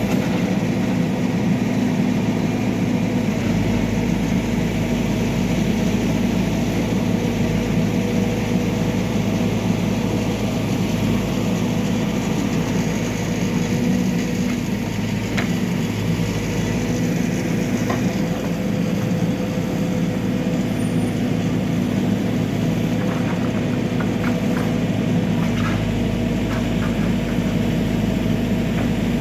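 Backhoe loader's diesel engine running at a steady speed, with a few faint clicks in the second half.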